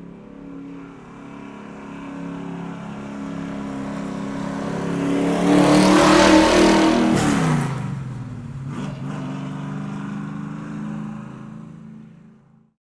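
A car driving past: its engine grows louder as it approaches, peaks about six seconds in, then drops in pitch as it goes by and carries on more quietly before cutting off near the end.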